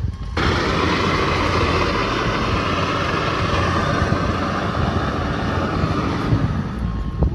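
Combine harvester running under a low engine hum. A loud, steady rushing hiss starts abruptly just after the start and fades out near the end.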